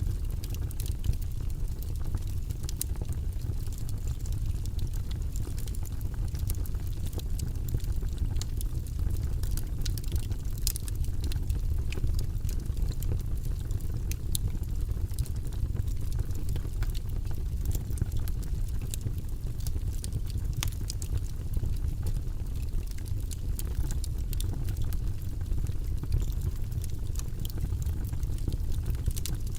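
Wood fire burning in a fireplace: a steady low rumble of burning logs, with frequent small crackles and pops scattered throughout.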